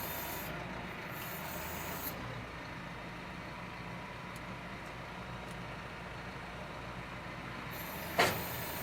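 Tractor engine running steadily while the Claas baler's hydraulic drop floor is raised, with two short bursts of hiss in the first two seconds. A single sharp knock sounds near the end, the loudest thing here.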